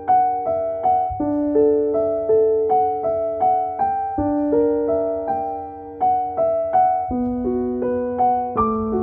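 Gentle solo piano music: a melody of struck notes about two a second, each fading, over longer-held lower notes.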